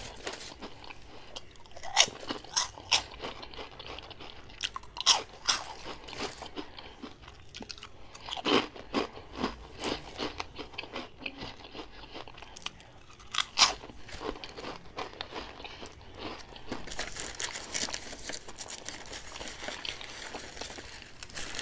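Close-miked chewing and crunching of Funyuns chips in the mouth: softer chewing between a handful of sharp, loud crunches.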